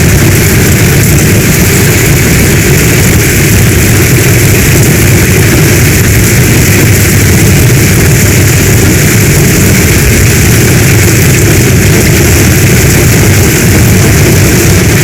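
Steady heavy rainstorm: a dense even hiss of rain over a deep continuous rumble, with no breaks or single strikes.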